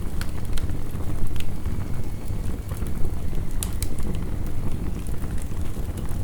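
Crackling wood fire and heavy rain: irregular sharp pops and snaps, a few a second, over a steady low rushing rain.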